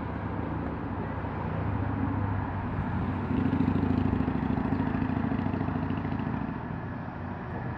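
Diesel engine of a train running, growing louder about three seconds in and easing off again near the end.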